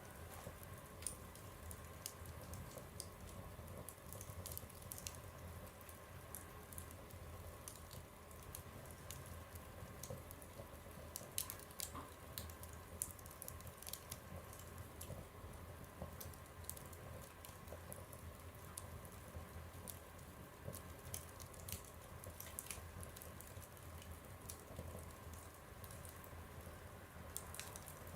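Wood fire burning in a stove, crackling with irregular sharp pops over a faint steady low hum.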